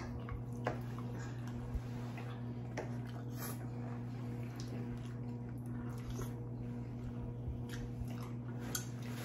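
Soft wet chewing and mouth sounds of people eating creamy pasta, with scattered faint clicks and smacks, over a steady low hum.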